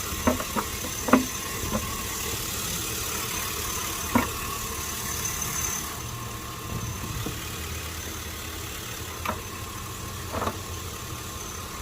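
2005 Chevy Tahoe's V8 engine idling steadily, with no more shaking now that a leaking vacuum line has been replaced. A few sharp knocks sound over it, one near the start, one about a second in, one about four seconds in, and two near the end.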